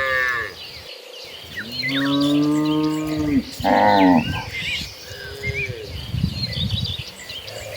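Cattle mooing: a call tails off at the start, then a long low moo comes about two seconds in, a shorter, higher moo near the four-second mark, and a fainter one after five seconds. Small birds chirp throughout.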